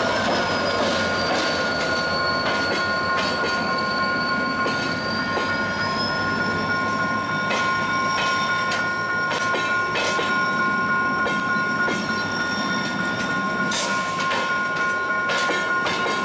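Passenger train rolling slowly across a badly worn level-crossing rail, wheels squealing in a steady high whine. Irregular clacks and knocks come from the wheels striking the damaged rail, more of them in the second half.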